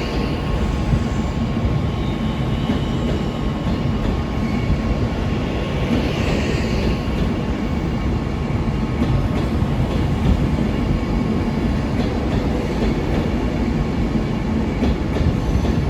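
A train moving in the station, a steady low rumble throughout, with brief hissing near the start and again about six seconds in.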